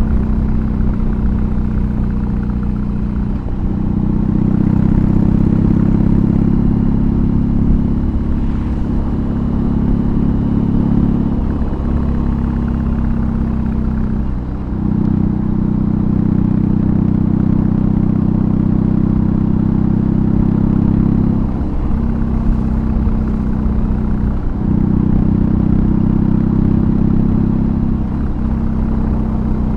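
BMW R18's big boxer-twin engine running through an aftermarket exhaust while riding, a steady deep note with short breaks every few seconds.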